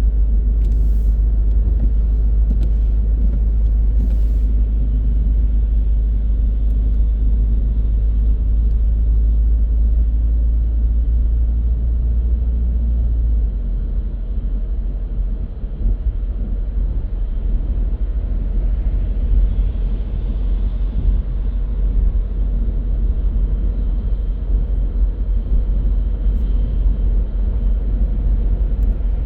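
Car on the move: steady low rumble of engine and tyre noise, which shifts slightly lower about halfway through.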